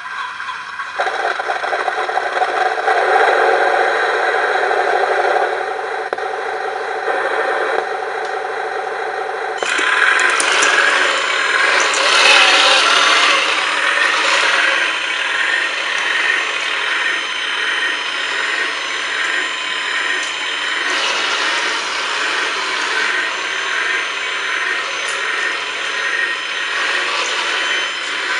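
RC bulldozer's small electric drive motors and gearboxes running with a steady whine. The sound shifts higher and gets louder about ten seconds in.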